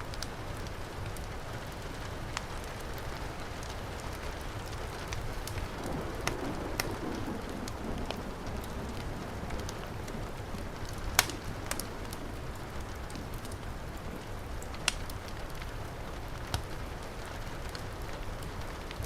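Heavy rain falling steadily, mixed with a crackling wood fire whose sharp pops come every few seconds, the loudest about eleven seconds in.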